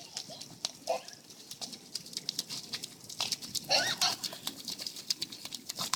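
Rain pattering in irregular drops and taps close by, with short high shrieks from children playing in the rain about a second in and again near four seconds.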